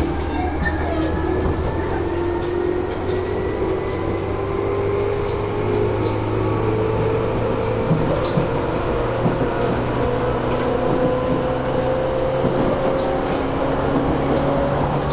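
Running sound heard inside a Tobu 10000 series electric motor car: the traction-motor and gear whine rises steadily in pitch as the train gathers speed, over a low rumble with faint rail-joint clicks.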